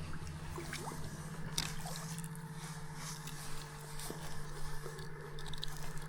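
River water trickling and lapping at the bank, over a steady low hum, with scattered small clicks.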